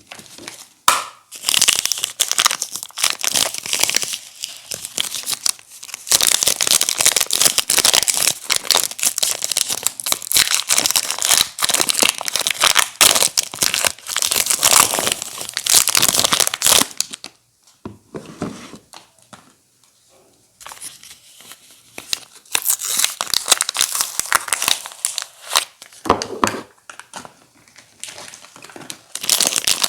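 Soap wrappers being torn open and crinkled while bars of soap are unpacked, in dense crackling stretches with a quieter pause a little past halfway.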